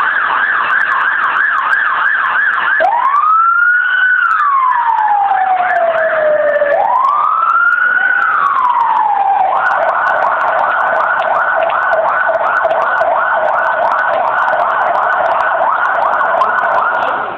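Emergency vehicle siren sounding close by: a fast warbling yelp, then two slow wails that rise and fall, then the fast yelp again for several seconds before it cuts off near the end.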